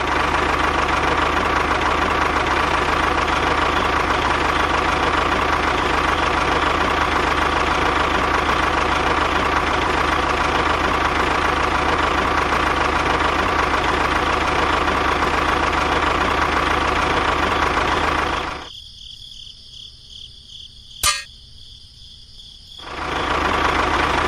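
Miniature model tractor's small motor running steadily with an even hum. Near the end it drops away abruptly for about four seconds, with one sharp click, then comes back.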